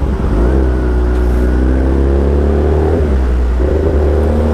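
Motorcycle engine running in slow traffic, its note sinking gradually and then rising again near the end as the throttle opens.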